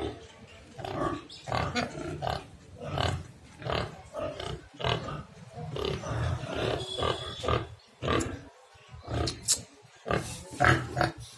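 Pigs grunting: a steady run of short, irregular grunts from several animals, overlapping one another.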